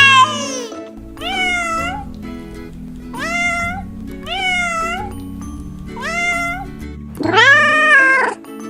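A cat meowing repeatedly: six high meows, each rising then falling in pitch, several of them nearly identical, with a longer and louder meow near the end. Steady low background music runs beneath.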